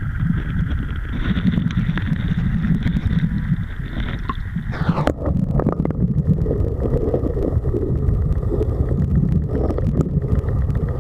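Strong wind buffeting the microphone over a rushing river, with a steady hiss of water that drops away suddenly about five seconds in.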